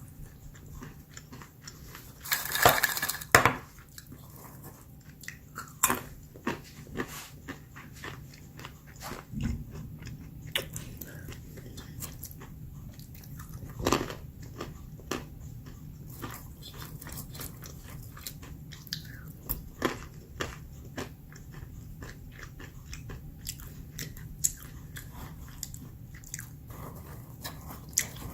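Close-up chewing of crunchy roasted almonds: irregular sharp cracks and crunches as the nuts are bitten and chewed, with a louder cluster of crunches about three seconds in.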